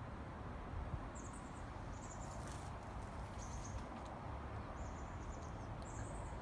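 Birds chirping outside, short high chirps coming every second or so, over a steady low rumble of background noise. A few faint clicks are heard near the middle.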